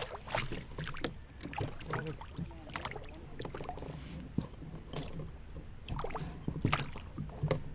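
Scattered knocks and clicks of fishing gear being handled on a kayak, over a faint steady hum.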